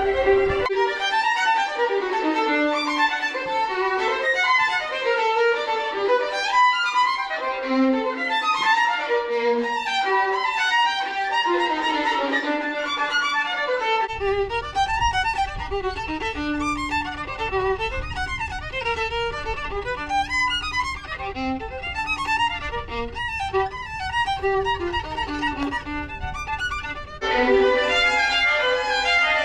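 Violin playing a quick-moving melody of many short notes, with louder held notes near the end.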